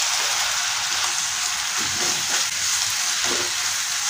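Diced potatoes, spices and freshly added chopped tomato sizzling steadily in hot oil in a kadhai, with a wooden spatula stirring and scraping the pan a few times in the second half.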